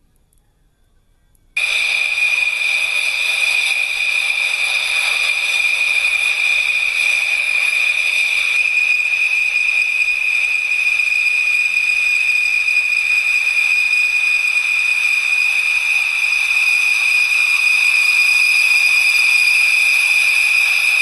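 Fighter jet engine running on the ground: a steady high-pitched whine over a hiss, cutting in suddenly about a second and a half in.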